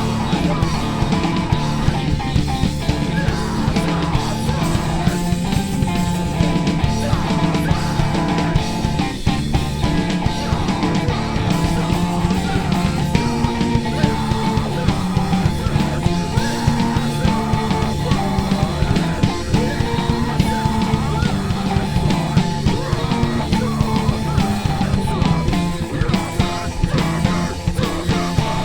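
Rock band playing live, with guitar and drum kit together in a steady, driving rhythm.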